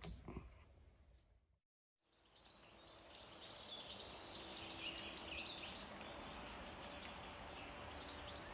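After a moment of dead silence, faint outdoor background with several birds chirping and calling.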